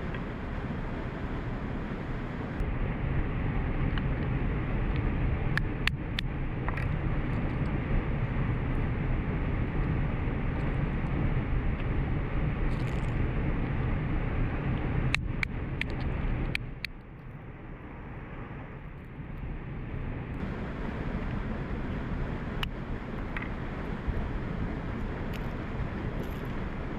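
Steady rushing of a waterfall, with a few sharp knocks of a wooden mallet cracking walnuts, in clusters. The rush drops in level for a few seconds past the middle.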